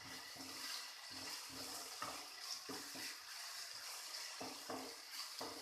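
Onion, tomato and ginger-garlic paste frying in oil in a pan with a steady sizzle, stirred with a spoon in short irregular strokes.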